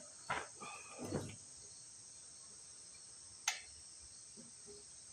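Crickets chirping steadily, with a few short clicks and clinks of hand tools and small metal parts being worked: a cluster in the first second or so and one sharp click about three and a half seconds in.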